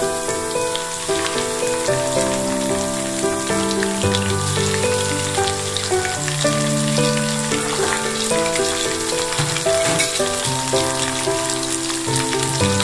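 Chicken thighs and minced garlic sizzling in hot oil in a frying pan, a steady crackle, under background music of slow held notes.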